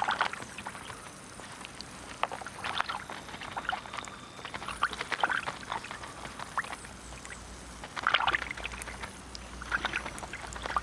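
Wet water sounds: irregular trickling and gurgling with small splashes and clicks, coming in clusters a few times.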